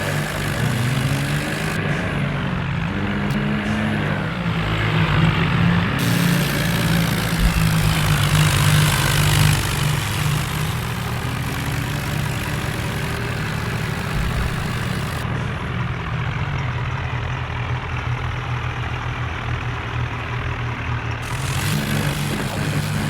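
Diesel tractor engines running steadily, their pitch shifting up and down a little a few times.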